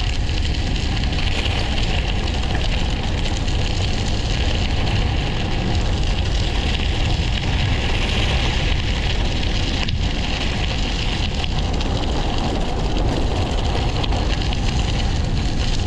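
Steady rushing noise of wind buffeting the microphone on a bike riding downhill, with a deep rumble and a continuous rolling hiss.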